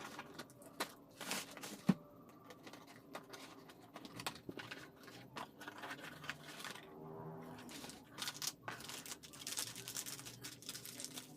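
Faint crinkling and rustling of packaging being handled and opened, with scattered small clicks and knocks.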